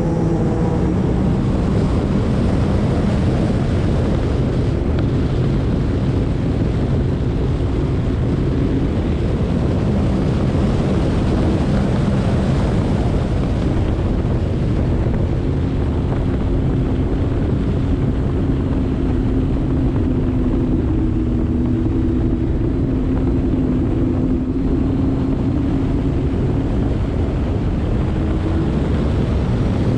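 Sea-Doo RXT-X 300 personal watercraft running steadily at speed, its supercharged three-cylinder Rotax engine under heavy wind noise on the microphone and rushing water.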